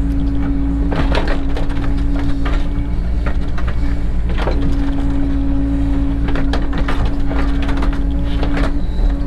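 Cat 307 excavator working: its diesel engine runs steadily under a steady hydraulic whine that breaks off briefly twice, while the bucket knocks and scrapes against stone and soil.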